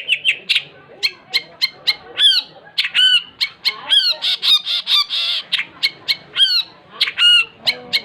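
Long-tailed shrike (cendet) singing vigorously: a rapid run of short, sharp, chirping notes, several a second, many of them quick downward glides. Harsher, scratchy calls come in about four to five seconds in.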